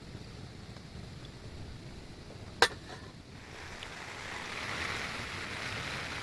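Low rumble of wind, with a single sharp click about two and a half seconds in, then a steady hiss that builds from about three and a half seconds in.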